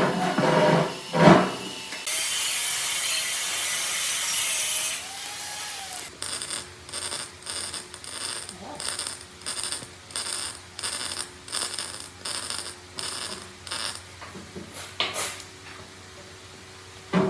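A few sharp knocks, then a steady hiss for a few seconds, then rhythmic scraping strokes, about two a second for some eight seconds, like a hand tool worked back and forth.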